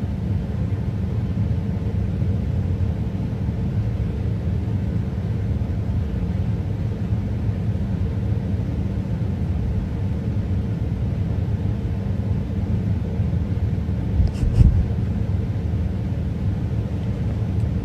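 Steady low rumble with one brief thump about fourteen seconds in.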